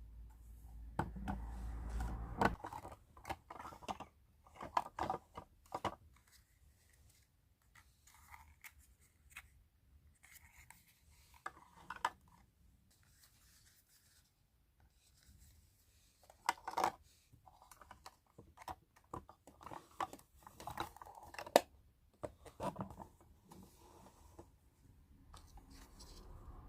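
Unboxing a miniature Hello Kitty kitchen and fridge toy set: packaging torn and cut, and the small toy pieces handled. Irregular clicks and rustles with short pauses, the busiest stretch in the first few seconds.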